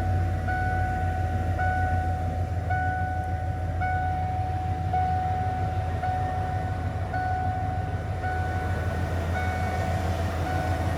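A warning chime repeating evenly about once a second, each tone held almost a second, over a steady low hum.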